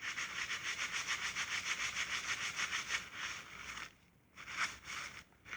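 Aerosol spray hissing steadily for about four seconds, then stopping, with two short puffs after. It is lubricant being sprayed so the solenoid and its O-ring do not go in dry.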